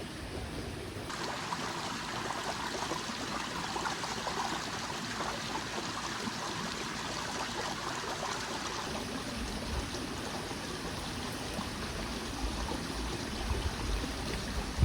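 A small mountain stream flowing and trickling with a steady rush of water.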